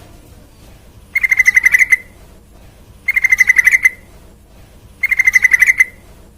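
Yellow-vented bulbul (trucukan) calling: a quick, bubbly phrase of a dozen or so rapid notes, given three times about two seconds apart.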